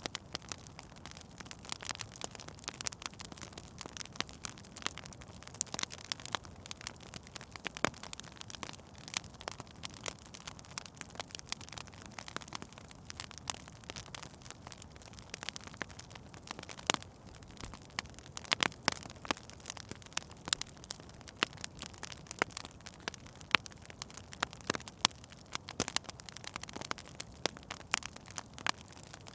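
Wood fire burning in a fireplace, crackling and popping irregularly: many sharp pops scattered over a soft steady hiss.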